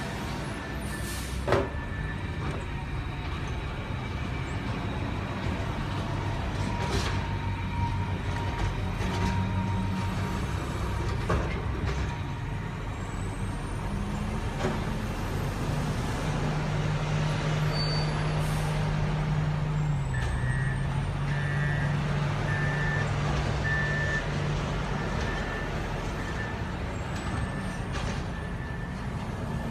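Garbage truck engine running, its pitch rising and holding for several seconds in the middle of the stretch, with a few short sharp noises and a series of short beeps in the second half.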